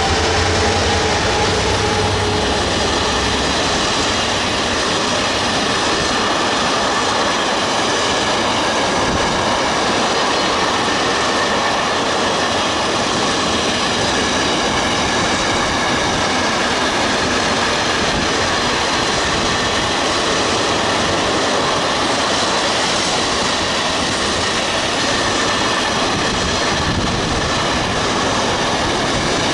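A train passing close by: a diesel locomotive's engine note dies away in the first few seconds, then a steady loud run of wheels on rail with high-pitched wheel squeal tones over it.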